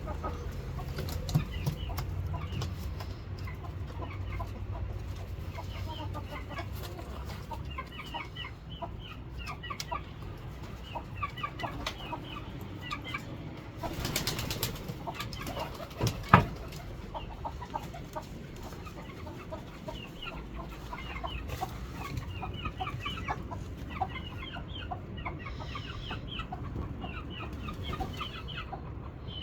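Birds calling: chickens among many short, high chirps repeated all through. A brief noisy rush about halfway through, and a single sharp knock just after it.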